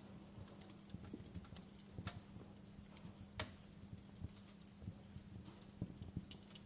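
Wood fire crackling in a fireplace: irregular sharp pops and ticks, the loudest about three and a half seconds in, over a steady low hum.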